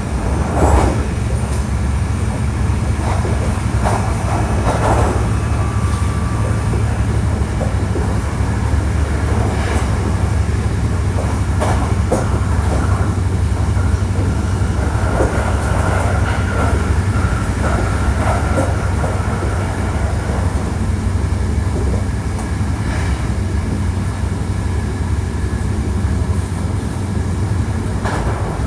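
Hankyu 1300 series electric train running at speed, heard from inside the car: a steady low rumble of wheels on rail with scattered clacks over rail joints. A faint high squeal comes in around the middle.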